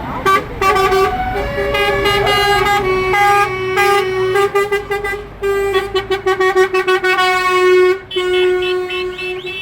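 Tractor horn tooted many times in short blasts, then held in a few longer honks near the end.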